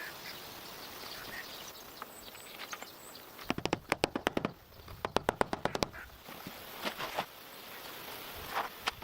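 Two quick runs of rapid, evenly spaced knocks, about ten a second, each lasting about a second, over a faint outdoor background.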